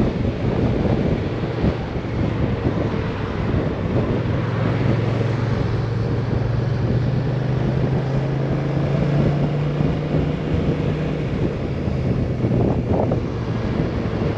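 Strong wind buffeting the microphone on a moving Kymco AK 550 maxi-scooter, a constant rushing roar. Under it the scooter's steady engine hum comes up about four seconds in and eases off again a few seconds before the end.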